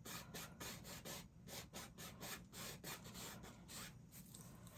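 Paintbrush bristles scrubbing on a stretched canvas in quick, repeated strokes: a faint, steady scratchy rubbing.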